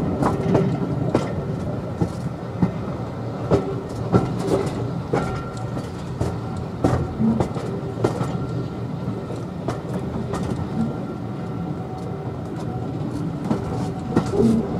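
Passenger carriage running along the track: a steady rumble from the wheels, with irregular clicks and knocks as the wheels pass over rail joints.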